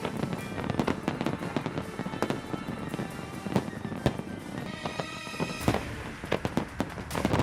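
Fireworks display: a rapid, irregular string of shell bursts and crackling pops, with music playing alongside.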